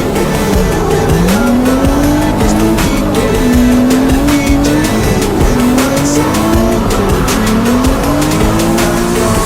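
Nissan 370Z's 3.7-litre V6 revving through a drift, its pitch climbing again and again every second or two, with tyres squealing. A song plays underneath.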